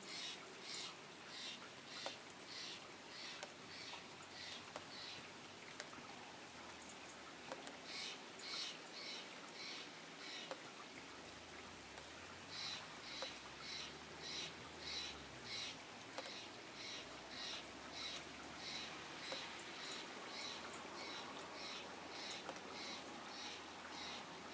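A bird repeating a short high chirp two to three times a second in long runs, with two brief pauses, over the steady hiss of falling rain.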